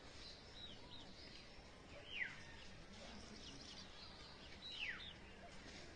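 Faint bird calls over a low background hiss: scattered short chirps, with two clearer calls that slide down in pitch, about two seconds in and again near five seconds.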